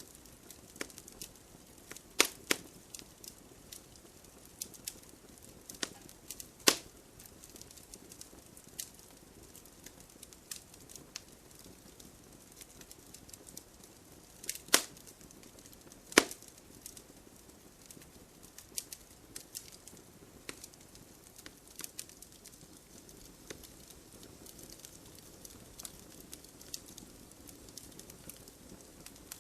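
Wood fire crackling in a fireplace: irregular sharp snaps and pops over a faint steady hiss, with a handful of much louder pops standing out.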